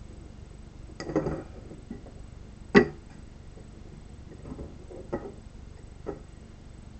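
A 3D-printed solenoid device clicking and knocking as its solenoid fires: five separate sharp strikes at uneven spacing, the loudest just under three seconds in.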